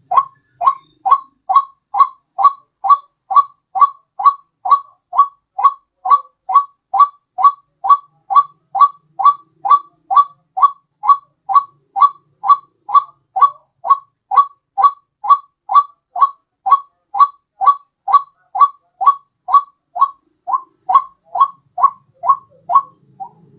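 White-breasted waterhen (ruak-ruak) call played as a bird lure: a short, loud note repeated steadily about twice a second.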